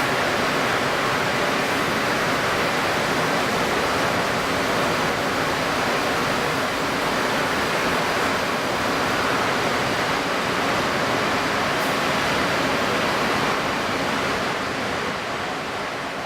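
Steady rushing noise of strong wind and wind-stirred water, fading out over the last couple of seconds.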